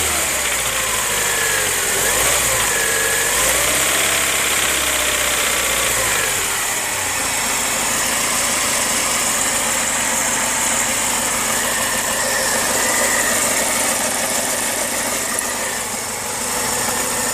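Car engine running, its revs rising and falling for about the first six seconds, then settling to a steady idle, with a knock whose cause is unknown.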